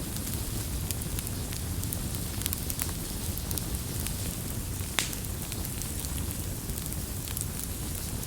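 Wood campfire burning with a steady low rumble and scattered sharp crackles and pops, one louder pop about five seconds in.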